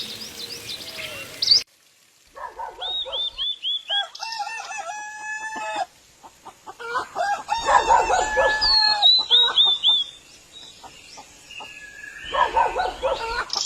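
Birds calling: runs of short falling chirps and longer held calls. The sound cuts off abruptly twice, at about a second and a half and about six seconds in, then starts again.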